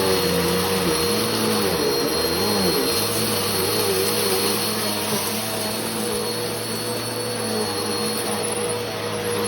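Bissell PowerForce Helix Turbo Rewind Pet (model 1797) upright vacuum cleaner running: a steady motor whine over a lower hum that wavers in pitch for the first three seconds, then holds steady.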